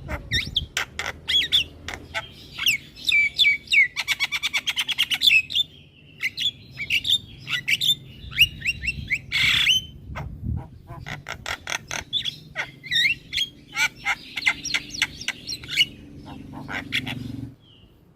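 Javan myna (jalak kebo) singing a busy, varied song of squawks, clicks, chirps and short falling whistles, with a fast rattling trill about four seconds in. The song cuts off abruptly near the end.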